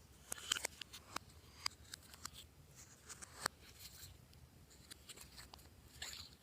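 Slime being pressed and worked by hand: a scatter of sharp clicks and crackly pops, densest in the first second, with a short squishy rush near the end.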